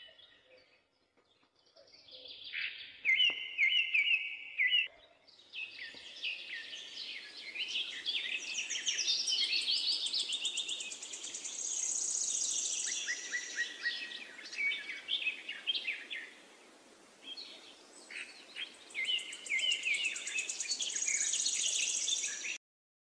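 Several songbirds chirping and singing at once, a dense run of quick high chirps and trills that starts faint, dips briefly after the middle, and cuts off suddenly near the end.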